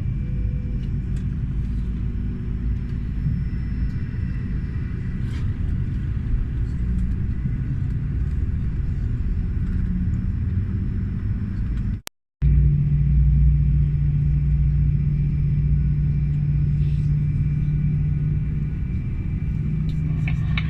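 Steady low rumble inside an Airbus A320's cabin on the ground. It cuts out briefly about twelve seconds in, and a steadier, deeper hum with two low tones follows.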